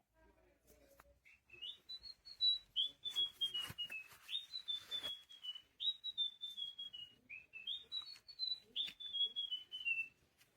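Electronic toy bird (Pets Alive Chirpy Birds) playing a chirping tune: about four phrases of short high whistled notes, each phrase stepping down in pitch, with a few handling clicks.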